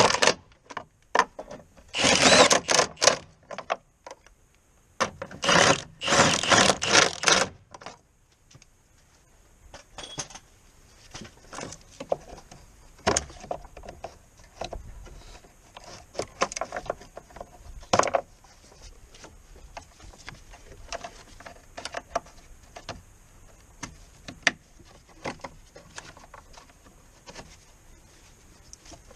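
Hand-tool work on the car: three bursts of scraping or rubbing strokes in the first seven seconds or so, then scattered light clicks and knocks of tools and metal parts being handled.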